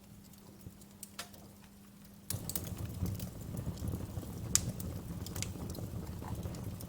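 Wood fire crackling in a fireplace, with scattered sharp pops and snaps; a little over two seconds in, a louder low rushing of burning flames comes in under the crackle.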